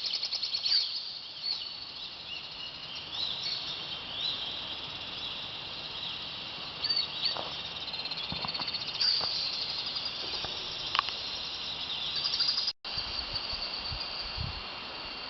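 Birds chirping and trilling over a steady high insect drone, with a brief dropout near the end.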